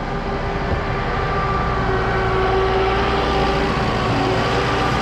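A vehicle engine running steadily with a constant whine, over a rushing noise.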